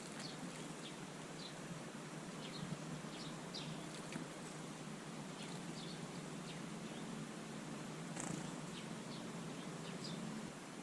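Small garden birds giving short, high chirps scattered throughout, over a steady low hum.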